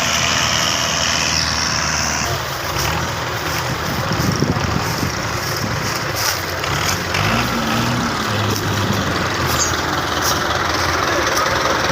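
Belarus 510 tractor's diesel engine running steadily, its low pitch shifting a little, with scattered short clicks over it.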